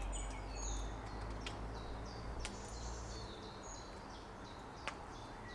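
Small songbirds chirping in the forest, a quick run of short falling notes repeated again and again, over a low rumble that drops away a little past halfway. Three faint sharp clicks stand out.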